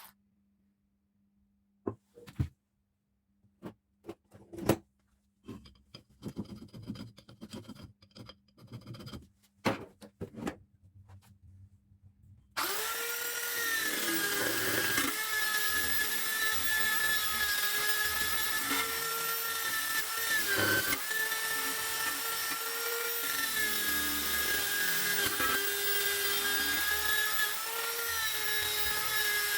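Scattered clicks and knocks of parts being handled over a faint hum. About halfway through, a handheld power tool starts running with a steady high whine, its pitch dipping now and then as it bears on the work.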